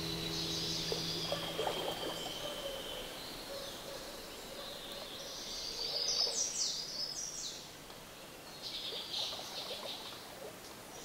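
Birds chirping in short high phrases, with a quick run of descending chirps past the middle and more chirps near the end. A low steady hum stops about two seconds in.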